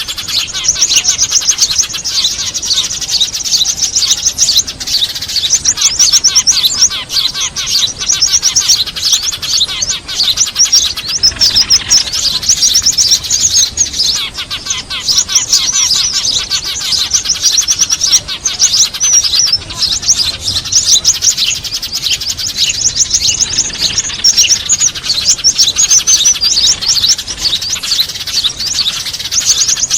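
Many small birds, sparrows among them, chattering in a dense, rapid run of high chirps without a pause: a bird-lure (pikat) recording meant to draw small birds in.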